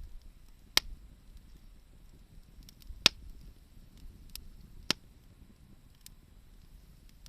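Wood bonfire crackling: three sharp pops, about a second in, about three seconds in and near five seconds, with fainter ticks between.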